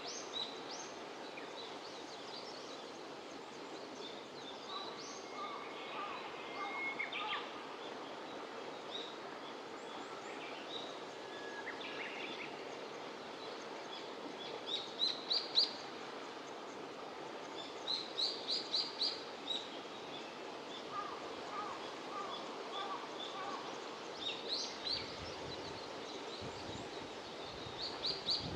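Birds calling outdoors: short bursts of quick, high chirps, often four or five notes in a row, repeat every few seconds, with a few lower calls between, over a steady background hiss. A low rumble comes in briefly near the end.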